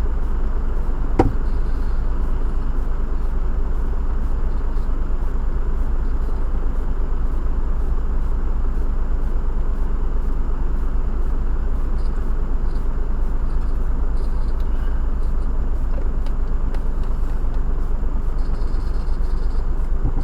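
Steady noise inside a car driving in heavy rain: rain on the bodywork and tyres on the wet road, with one short click about a second in.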